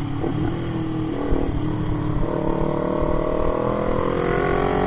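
Motorcycle engine pulling away under acceleration, its pitch climbing slowly and steadily from about halfway through, over a low rumble of wind and road noise.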